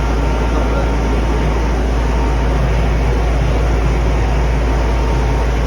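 Steady, loud machinery noise with a deep rumble, unchanging throughout.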